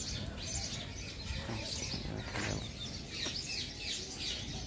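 Many birds chirping and twittering, short quick calls overlapping throughout, over a steady low background rumble.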